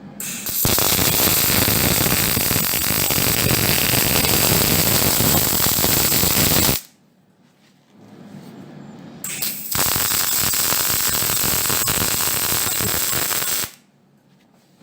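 Electric arc welding on steel bodywork: the arc crackles steadily in two runs, about six seconds and then about four seconds, with a brief pause between them.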